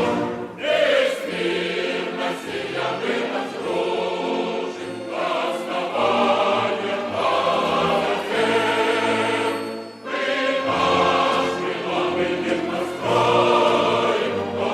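Choral music: a choir singing long held notes, dipping briefly about ten seconds in before coming back in full.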